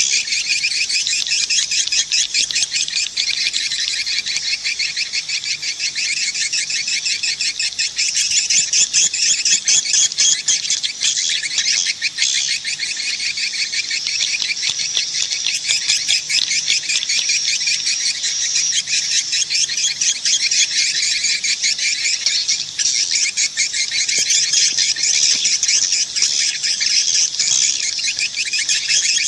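Edible-nest swiftlets twittering in a dense, continuous chorus of rapid high chirps. This is the swiftlet calling sound played to lure the birds into a swiftlet house.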